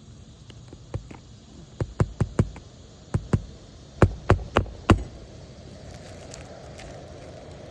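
Hammer driving roofing nails into a replacement asphalt shingle: about a dozen sharp knocks in quick groups, the loudest a run of four about four seconds in.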